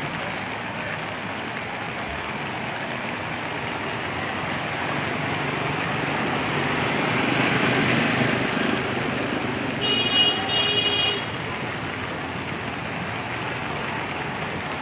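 Road traffic noise with a vehicle passing, its sound swelling and fading, then a vehicle horn honked twice in quick short blasts about ten seconds in.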